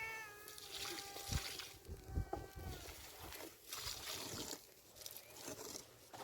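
An animal's faint short calls, several in the first few seconds, over soft hissing noise.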